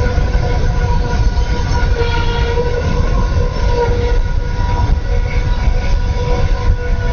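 A train running close by: a heavy low rumble with several steady high tones held over it.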